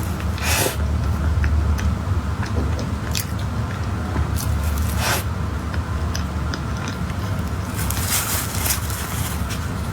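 Close-miked eating sounds: biting and chewing, with a few sharp clicks and scrapes and a cluster of them near the end, over a steady low hum.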